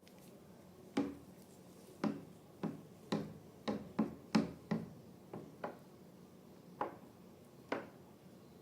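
About a dozen short, sharp clicks or pops at uneven spacing, most of them bunched close together in the middle.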